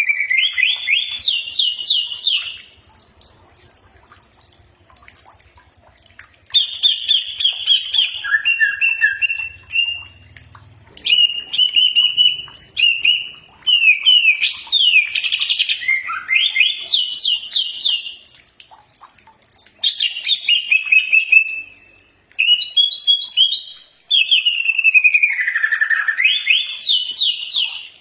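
Green leafbird (cucak ijo) singing loudly in phrases of a few seconds with short pauses between them, mixing falling whistles with fast trills.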